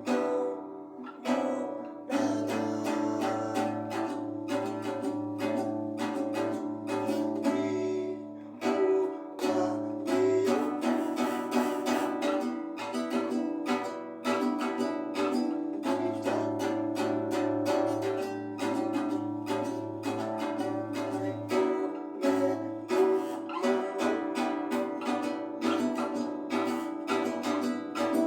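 Strummed acoustic guitar music with a steady rhythm.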